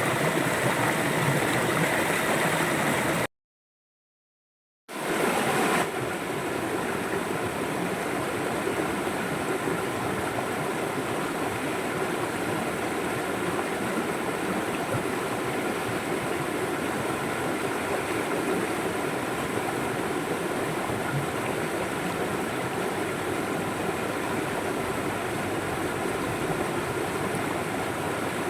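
River water flowing steadily. About three seconds in the sound cuts out completely for a second and a half, then the flow resumes slightly quieter.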